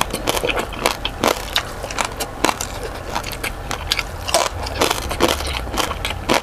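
Close-miked chewing of crispy fried pork belly (lechon kawali) and rice, with many short crunching clicks all through.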